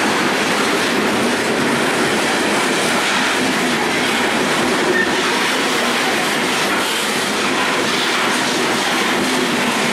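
Freight train of gondola cars rolling past close by: a steady, loud rumble and clatter of steel wheels on the rails.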